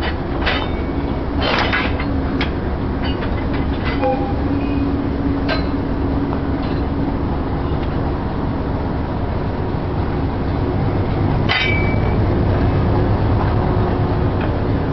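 Freight boxcars rolling past on the rails: a steady low rumble of wheels and running gear, with scattered metallic clanks and brief squeals, the loudest clank about eleven and a half seconds in.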